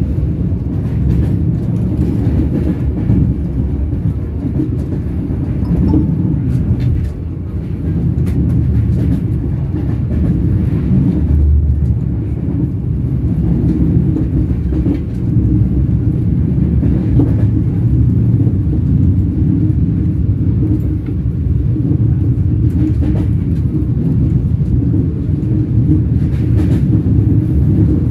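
Train wheels rolling on the rails: a steady low rumble with faint scattered clicks from the track.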